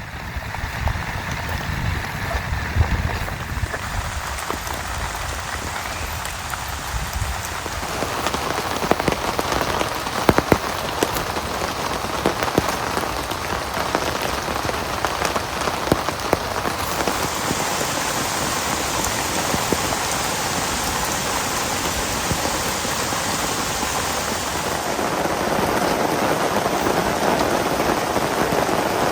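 Heavy rain falling steadily, with many individual drops tapping close by. It grows a little heavier about a quarter of the way in.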